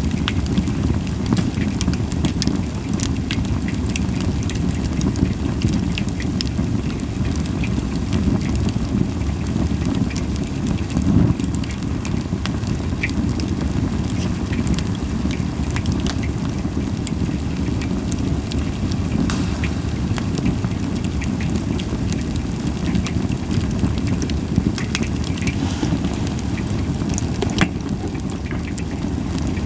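Wood fire of Japanese white pine crackling, with scattered sharp pops over a steady low rush.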